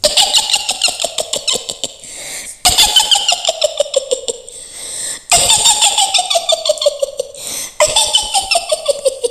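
A woman's high-pitched witch cackle, four bouts of rapid "hihihi" laughter, each one sliding down in pitch.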